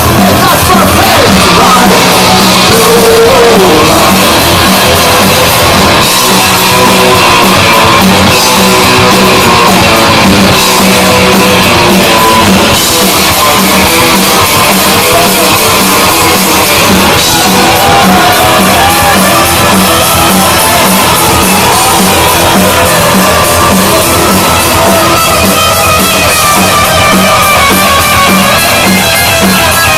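Punk rock band playing live and loud: distorted electric guitar, bass and drum kit.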